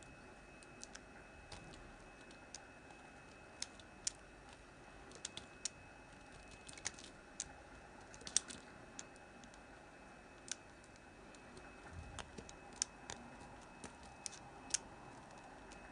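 Hard Palmolive bar soap being cut with a knife: sharp, irregular crisp clicks and crackles, a few at a time with short gaps between.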